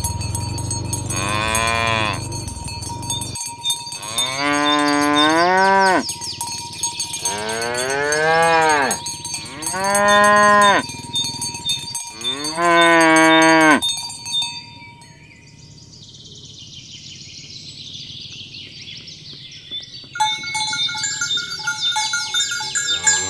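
Cattle mooing five times in the first half, each call a long rising-then-falling low note, over steady bell ringing. Near the end the bells ring on their own, louder.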